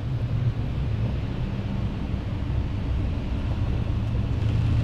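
A car driving, a steady low engine and road hum.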